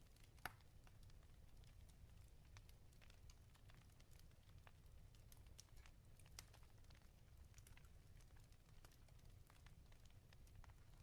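Wood fire crackling in a fireplace: faint, irregular pops and snaps over a low steady rumble, with one sharper pop about half a second in.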